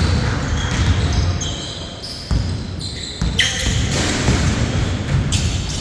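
A basketball bouncing repeatedly on a court during play, with a few short, high squeaks.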